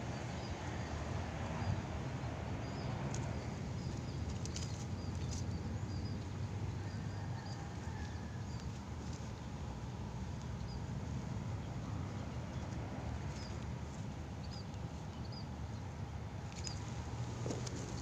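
Small birds chirping: short, high calls come singly throughout, with clusters around four to five seconds in and again near the end. Under them runs a steady low rumble with a few clicks.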